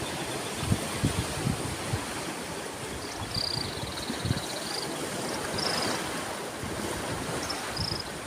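Sea waves washing onto a shore in a steady rush, with low buffets of wind on the microphone. A few short high chirps sound around the middle and near the end.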